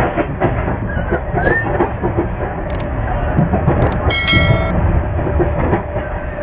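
MEMU electric train running on the track, heard from inside the coach: a steady rumble and rattle with scattered clicks, and a short horn toot about four seconds in.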